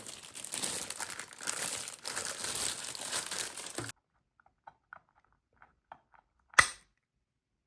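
Packaging crinkling and rustling as it is handled for about four seconds, then stopping abruptly. A few faint taps follow, then one sharp knock.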